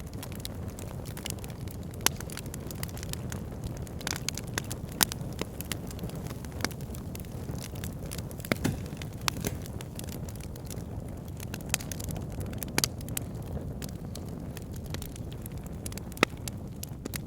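Fire pit fire crackling: irregular sharp pops and snaps, a few of them loud, over a steady low rumble of the flames.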